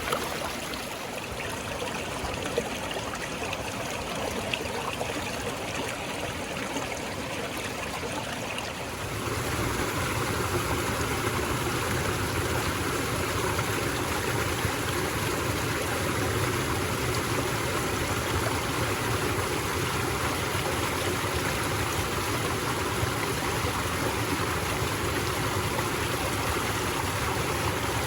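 Woodland stream flowing, a steady rush of water that turns louder and fuller about nine seconds in.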